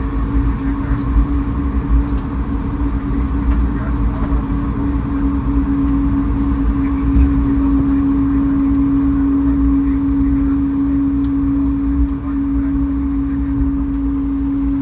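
Steady cabin noise of an Airbus A220-300 with its Pratt & Whitney PW1500G geared turbofan engines running: a constant mid-pitched hum over a low rumble.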